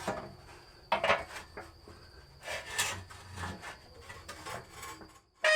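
Hard parts scraping and rubbing against each other in a few short, separate strokes, with a brighter clank near the end, as the ATV's exhaust parts are handled and worked into place.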